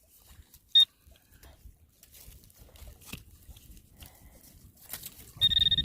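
Metal detector beeping: one short high beep about a second in, then a steady high tone starting near the end, the signal of metal close to the coil. Faint scrapes and taps of digging in soil come between the beeps.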